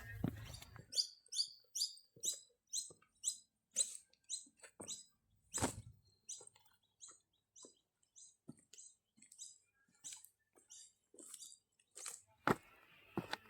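A bird calling over and over in short, high chirps, about two or three a second, with a few sharp knocks near the end.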